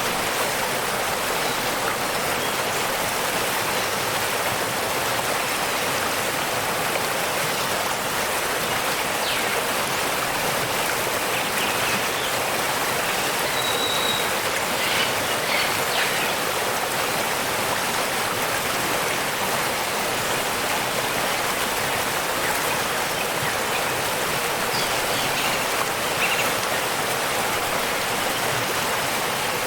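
Waterfall rushing steadily, a constant hiss of falling water, with a few faint, brief bird chirps scattered through it.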